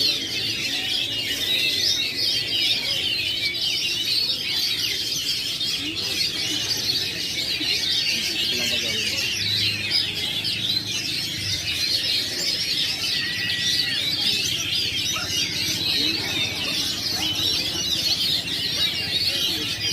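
Many caged songbirds singing at once in a dense, continuous chorus of overlapping chirps and whistles.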